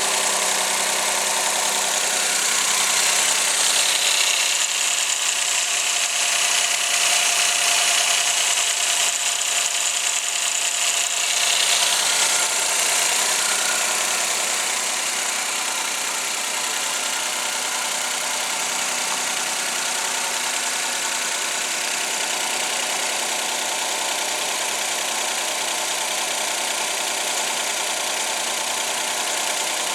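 Suzuki K6A three-cylinder 660 cc engine running, a little louder and higher for the first ten seconds or so, then settling to a steady idle.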